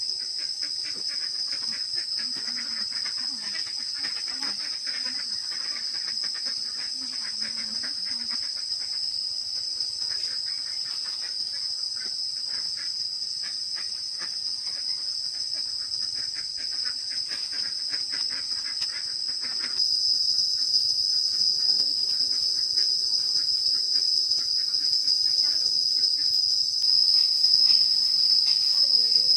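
Insect chorus chirring steadily at a high pitch, growing louder about two-thirds of the way through.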